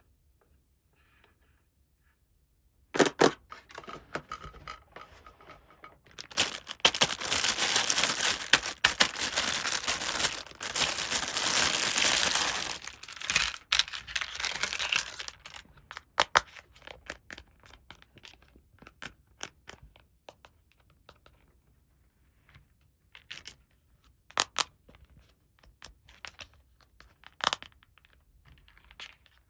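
Toy packaging being torn open: a sharp click about three seconds in, then about nine seconds of continuous tearing and crinkling, followed by scattered light clicks and taps.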